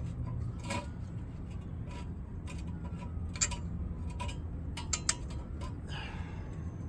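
Irregular sharp metal clicks and clinks of tools and brake hardware as rusted rear brake pads are worked loose in the caliper, with a louder clink about halfway through and two quick ones soon after, over a steady low hum.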